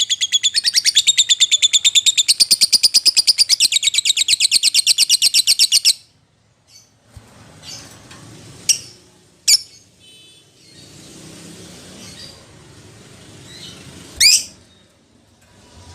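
Lovebird calling: a fast run of shrill, high chirps, about a dozen a second, that stops about six seconds in. A few single sharp chirps follow, spaced seconds apart.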